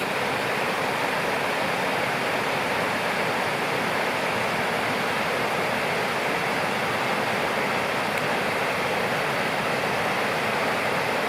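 Mountain river rushing steadily, a constant even roar of flowing water.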